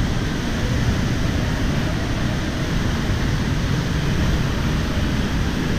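A large, powerful waterfall: a heavy flow of water crashing down, heard as a steady, unbroken rushing noise that is strongest in the low end.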